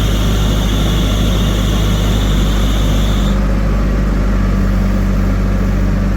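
Heavy diesel engine of a tractor or backhoe loader running steadily at a constant speed. A thin high whine over it stops about halfway through.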